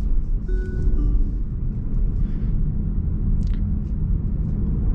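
Car cabin noise while driving: a steady low road and engine rumble. About half a second in, a brief two-note electronic tone sounds, stepping down in pitch.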